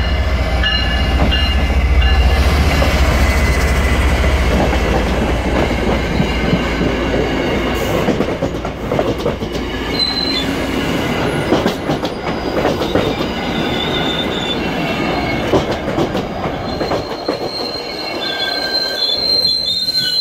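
MBTA commuter rail train rolling past a station platform. A deep diesel locomotive rumble is heavy at first and fades, then the coaches go by with steady wheel clatter, and high-pitched wheel squeal comes in near the end.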